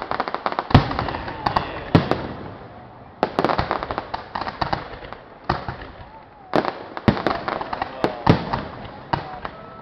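Fireworks display bursting: dense runs of sharp cracks and bangs in three volleys, with short lulls about two and a half and six seconds in, and a few louder booms standing out.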